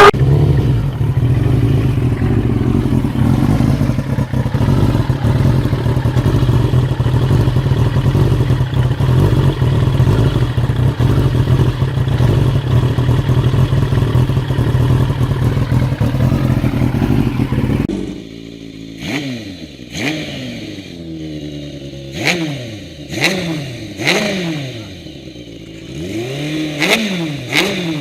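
Motorcycle-engined go-kart engines. First a steady, loud engine drone, then, after a cut about 18 s in, an engine repeatedly revving up and dropping back, its pitch rising and falling again and again, with short clattering noises between the revs.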